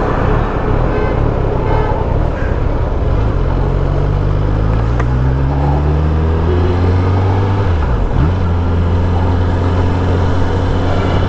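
Kawasaki ZX-10R inline-four engine pulling away slowly in traffic, its note rising over several seconds. The note dips briefly and recovers about two-thirds through, then runs steady and low.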